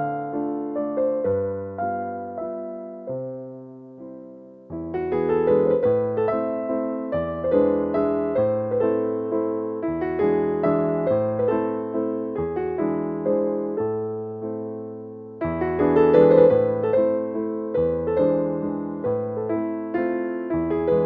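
Background piano music, a gentle waltz with notes and chords that ring and die away, softening briefly about four seconds in.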